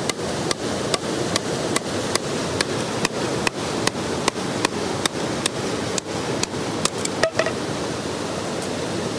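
A blade chopping bamboo, sharp even strikes about two and a half a second, over a steady rushing noise.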